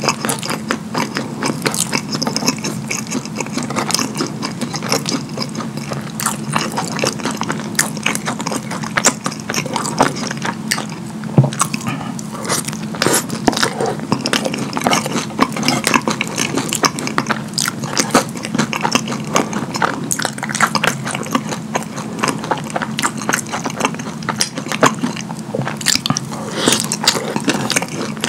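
Close-miked wet chewing and mouth smacking of saucy sloppy joe cheese fries, a rapid stream of small clicks and squelches, with a metal fork scraping and tapping on the board as it picks up more.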